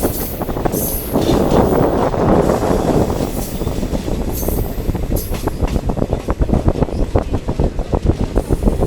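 Diesel multiple unit train running, heard on board: a steady rumble with fast, close-set clatter of the wheels on the track, denser in the second half.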